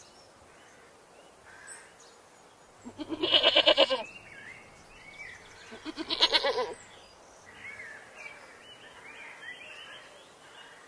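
A goat bleating twice, about three seconds apart, each bleat a long wavering call. Faint chirping runs underneath.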